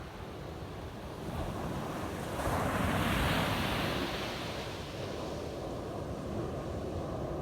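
Ocean waves breaking on a beach: a steady surf hiss, with a wave crashing about two and a half seconds in, swelling for a second or so and then washing out.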